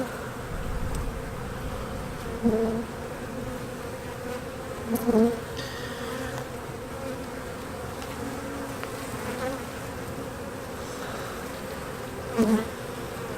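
Honeybees buzzing steadily around an opened hive, with three short louder swells of buzzing, about two and a half, five and twelve and a half seconds in.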